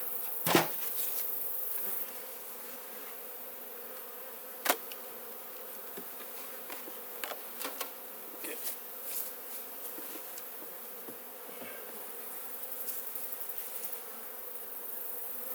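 Honey bee colony buzzing steadily around an opened beehive, with sharp knocks from the hive being handled, the loudest about half a second in and another near five seconds, and a few lighter clicks after that.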